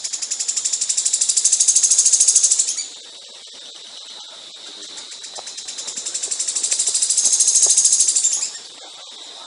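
A songbird's rapid, even, high-pitched trill in two bursts. Each burst builds in loudness and cuts off suddenly, the first about three seconds in and the second near the end.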